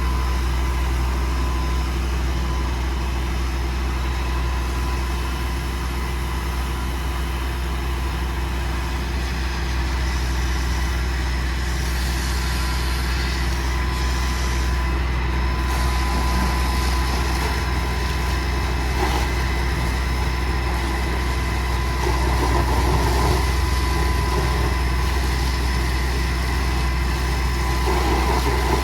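Ford 6.8L V10 gas engine of a 2019 F750 truck idling steadily.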